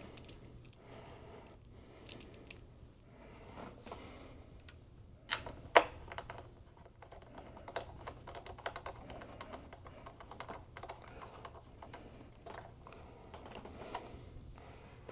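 Irregular light clicks and taps of small tools and computer parts being handled during work inside an opened iMac, with one sharper click about six seconds in.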